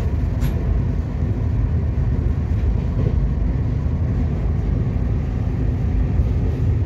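Steady low rumble of a Shatabdi Express train running along the track, heard from inside the passenger coach.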